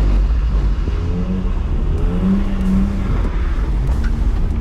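BMW E46 320i's M54B22 inline-six engine heard from inside the cabin, over a steady low rumble, with the revs rising briefly twice, about one and two seconds in.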